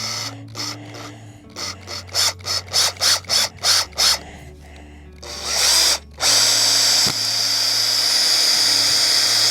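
Cordless power drill working on a wooden repair. First comes a quick run of about eight knocks over two seconds. Then a short burst, and the drill runs steadily with a high whine for the last few seconds.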